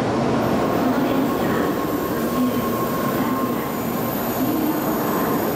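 Tokaido Shinkansen train running along the platform: a steady noise of wheels and running gear with a thin high whine above it from about half a second in.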